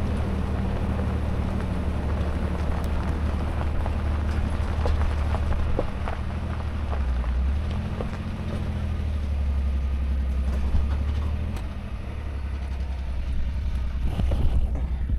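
Truck engine running with a steady low hum, its note shifting for a few seconds around the middle.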